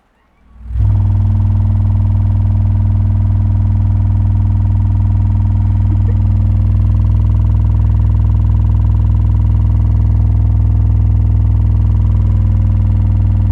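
Two URAL AK-10 subwoofers playing a steady, loud, deep bass test tone that comes on under a second in and holds without change.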